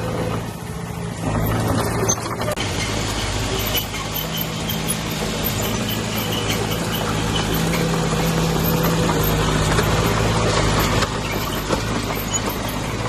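Diesel engine of heavy earthmoving machinery running steadily. It dips briefly about half a second in, then picks up again and keeps working with small changes in level.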